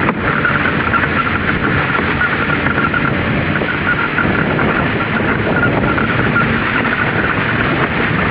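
A towing vehicle's engine running steadily under a constant rushing noise, as a kayak is pulled over snow.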